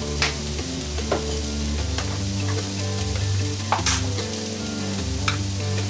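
Diced peppers and onions sizzling steadily as they sauté in a frying pan on medium heat, with a few sharp clicks from spice containers being handled.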